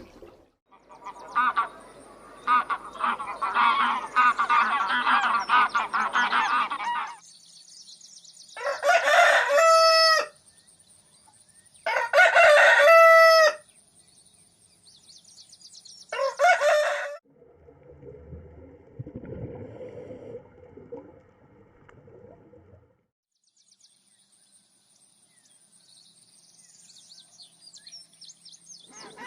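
Chickens clucking and squawking for several seconds, then a rooster crowing twice, each crow about a second and a half long, followed by a shorter call. After the crowing comes a few seconds of a lower, rougher sound.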